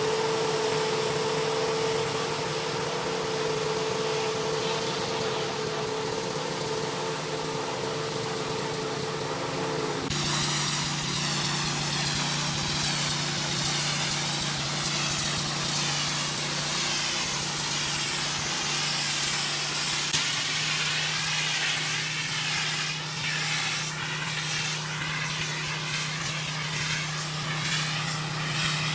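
Gas-engine pressure washer running steadily, then about ten seconds in the spray starts: a hiss of high-pressure water and a lower, labouring engine note as the pump takes the load.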